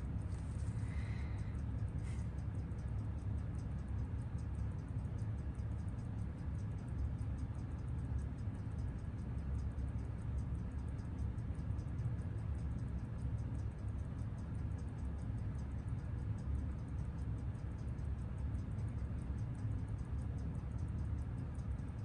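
Seiko 6139 chronograph movement ticking on a timegrapher: a rapid, perfectly even tick over a steady low hum, with a short high chirp about a second in. The beat is very steady, a movement the restorer finds remarkably solid on amplitude.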